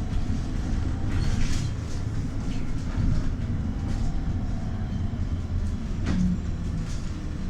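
Trolleybus running along the road: a steady low rumble with a few short rattles.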